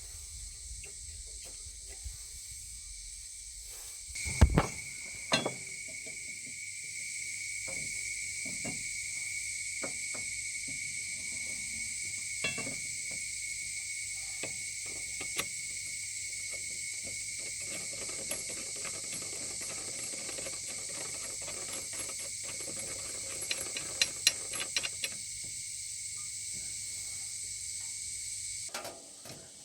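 Scattered metallic clinks and knocks of hand tools and steel mower blades being handled and fitted onto the deck spindles, with a sharp knock about four seconds in and a quick run of clicks near the end. A steady high hiss runs underneath.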